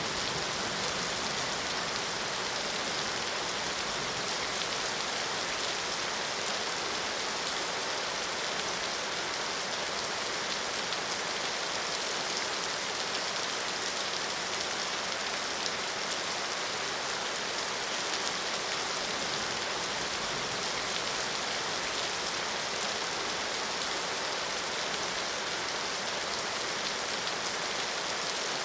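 Steady rain falling on a surface, an even hiss of many drops without let-up.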